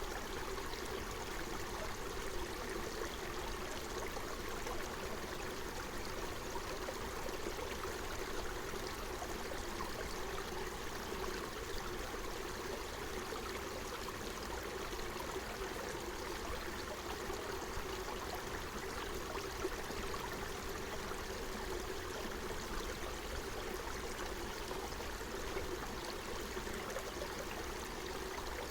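Forest stream flowing steadily, a constant rush of running water.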